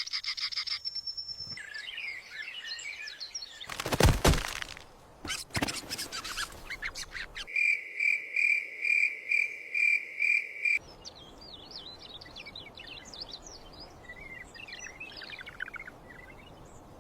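Birds chirping, with a run of about seven evenly spaced pulsed calls in the middle and fainter chirps near the end. A brief burst of noise about four seconds in is the loudest moment.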